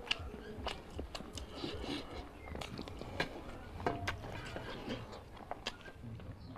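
Close-miked chewing of a hand-fed mouthful of egg and rice, with many short wet mouth clicks and lip smacks.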